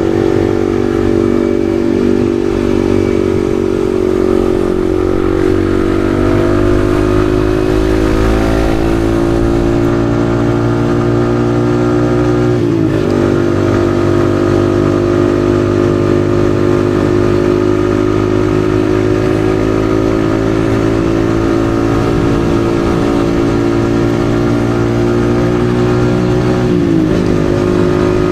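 Yamaha XSR155's single-cylinder engine running under way, its pitch climbing slowly as it pulls. The note breaks briefly about thirteen seconds in and again near the end, like a gear change, then carries on.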